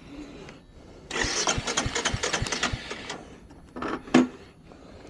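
Royal Enfield Hunter 350's single-cylinder engine being cranked by its electric starter with a steady rhythmic churn for about two seconds. The cranking stops, then there is a short burst and a single sharp knock about four seconds in.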